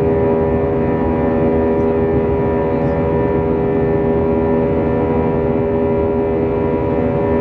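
Steady drone of an Airbus A320's CFM56 jet engines heard from inside the cabin: a constant rumble with several steady hum tones over it, unchanging in pitch and level.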